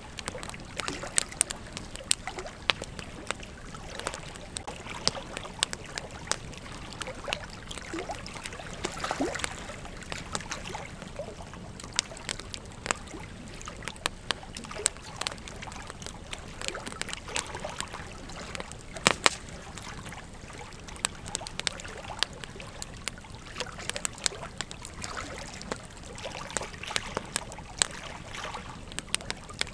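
Campfire crackling, with frequent irregular snaps and pops over a steady hiss.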